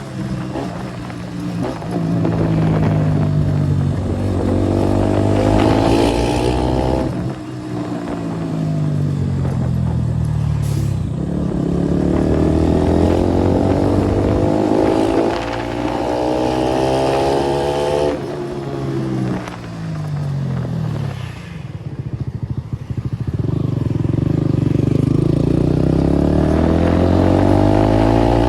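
KTM 390 Duke single-cylinder engine with a modified exhaust, accelerating on the road: its note climbs in long pulls with short dips at the gear changes, falls away as the throttle is closed about two-thirds through, then climbs again.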